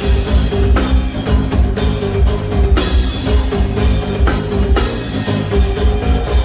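Live band playing without vocals: a drum kit keeps a steady beat of bass drum and snare strokes over sustained bass and chord notes.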